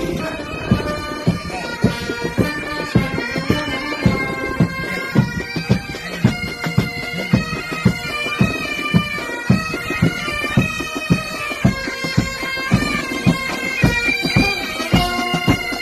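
Military pipe band playing a melody on bagpipes over a steady drum beat.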